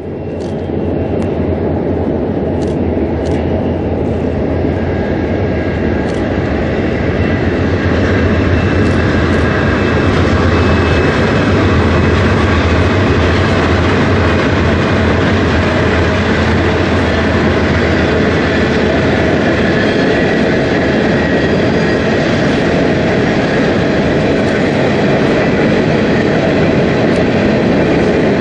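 Freight train passing close by: diesel locomotives' engines drone low and steady, then the drone eases as the wagons keep rumbling along the rails with a clickety-clack.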